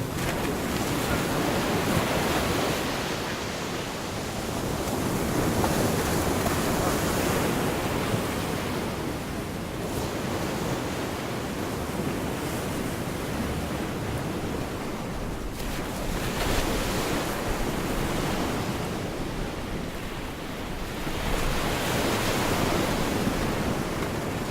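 Gulf of Mexico surf washing onto a beach, a steady rush that swells and eases in surges several seconds apart.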